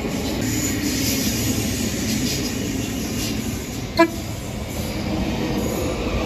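Queensland Rail electric suburban train running past the platform, a steady rumble and hum of wheels and motors. About four seconds in comes one very brief horn toot.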